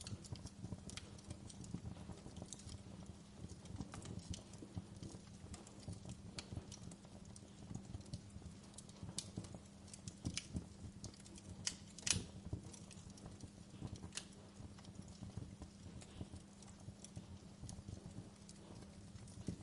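Wood fire crackling in a fireplace: irregular pops and snaps over a low steady rumble and a faint low hum, with one louder pop about twelve seconds in.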